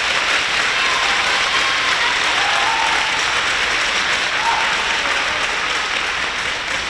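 Spectators applauding steadily, with a few voices calling out, easing off slightly near the end.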